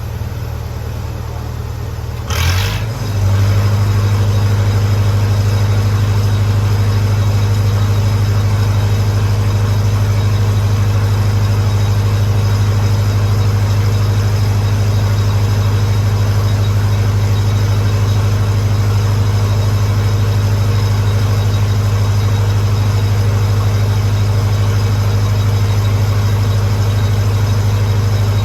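Lincoln SA-200 engine-driven welder's four-cylinder gasoline engine running steadily. About two and a half seconds in, the engine picks up and runs louder and steadier, typical of the welder's idler bringing it up to welding speed as the TIG arc draws current.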